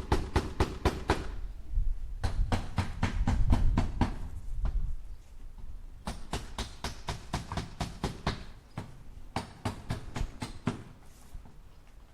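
A hammer driving nails into wood in quick, even blows, about six a second, in four runs with pauses of about a second between them. A deep rumble sits under the second run.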